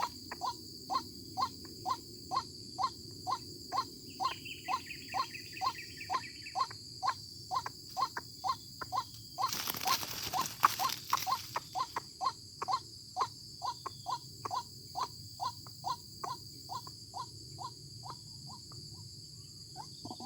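White-breasted waterhen calling a long, monotonous run of evenly spaced single notes, about two a second, the bird still calling after being caught. A steady high insect hum sits behind it, with a short rustle about ten seconds in.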